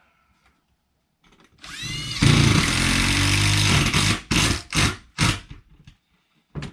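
Power drill driving a screw into sheet-metal roofing: the motor winds up with a rising whine, runs for about two seconds, then three short trigger bursts snug the screw without setting it fully. A short click near the end.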